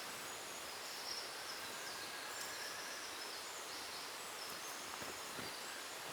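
Forest ambience: a steady background hiss with short, high bird calls repeating every second or so.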